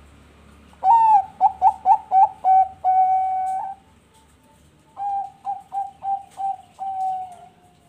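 Zebra dove (perkutut bangkok) singing two cooing phrases: each a quick run of short clipped coos ending in one long held coo, the first about a second in and the second about five seconds in.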